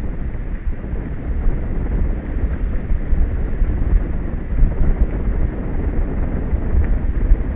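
Wind buffeting the microphone: a steady low rumble without a break.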